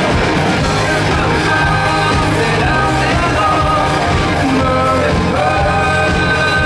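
Pop-rock band playing live with a male lead vocal, recorded in a large hall.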